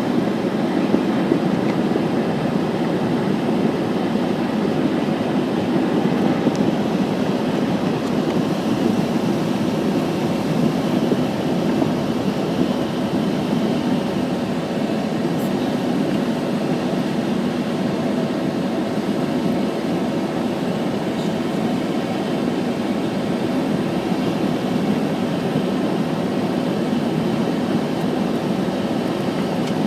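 Steady vehicle noise, mostly low in pitch, holding even without rising or falling.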